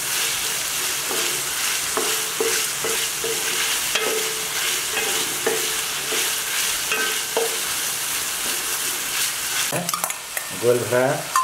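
Marinated boneless chicken pieces and chopped onion sizzling in oil in a frying pan, with the scrape and knock of a wooden spatula stirring them.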